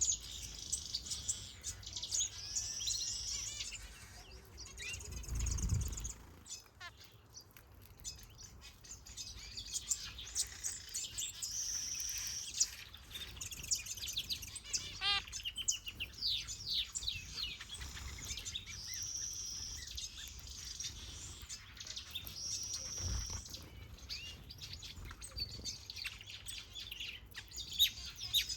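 Many small aviary birds, finches and softbills, chirping and twittering together in overlapping high calls and trills. A low rumble comes about five seconds in and again briefly near the end.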